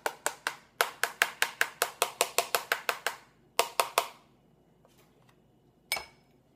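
A fast, even run of sharp taps, about five a second for a couple of seconds, then a quick group of three and one last tap near the end.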